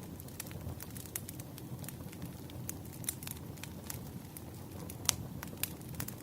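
Wood campfire burning, with many irregular sharp crackles and pops over a low steady rumble of the flames; the loudest pops come about five seconds in.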